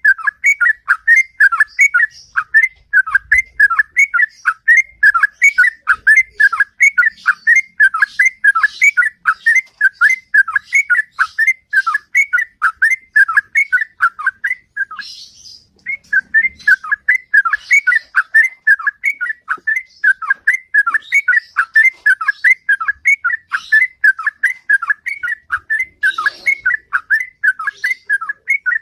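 Yellow-vented bulbul singing a long, rapid run of short whistled notes, about three a second, with a brief pause about halfway through.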